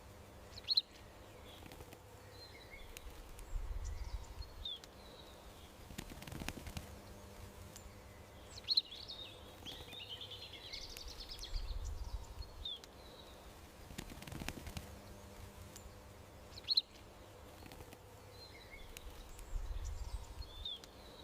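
Small songbirds chirping and trilling over a steady outdoor background with a faint hum, low rumbles and a sharp click, the same few seconds of sound repeating about every eight seconds.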